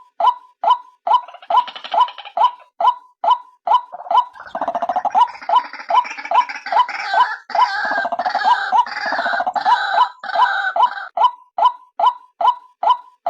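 White-breasted waterhen (ruak-ruak) calling: a steady run of short, sharp notes, about two to three a second. From about four seconds in until about eleven seconds, a denser, gurgling chatter is layered over them. This is a bird-trapping lure call presented as the female's call.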